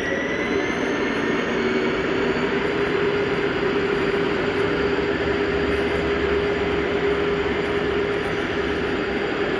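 Ride-on garden train rolling along the track, pulled by model diesel locomotives: a steady whine from the locomotives' motors and gears over continuous wheel-on-rail noise.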